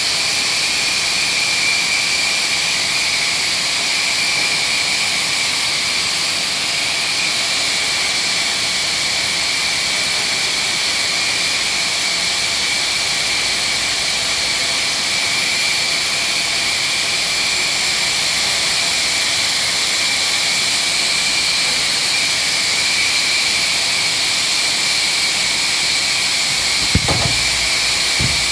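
Power sander running steadily on body filler during dry sanding: a continuous high-pitched whine over hiss. A brief knock sounds near the end.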